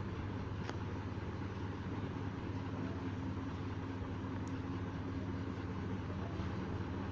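Chopped tomatoes and onion frying in oil in a steel kadhai, a steady sizzle with a low hum underneath. A steel spoon clicks against the pan once, about a second in.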